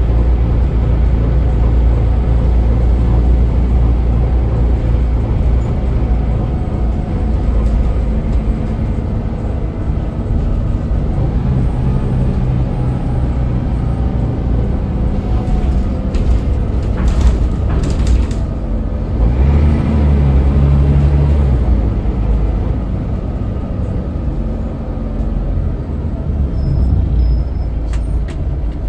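Scania L94UB city bus heard from on board: the engine drones steadily under way, its pitch shifting as the bus accelerates and changes gear, with a louder swell about two-thirds of the way through. A few short air hisses from the bus's air system come a little past halfway.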